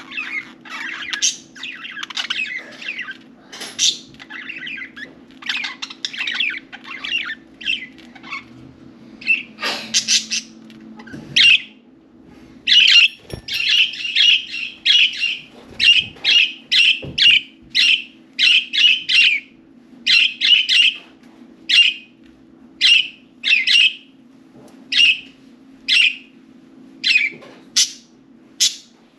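Budgerigars chattering and warbling in a busy run of mixed notes, then from about halfway through giving short, loud chirping calls, one or two a second. A faint steady hum runs underneath.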